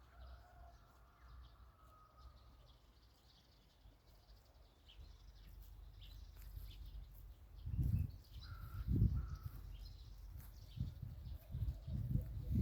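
Bird calls, with a crow-like caw, over a low rumbling noise that swells in several surges in the second half.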